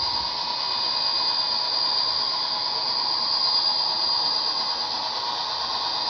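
Model train locomotive running, a steady high-pitched whine over an even hiss.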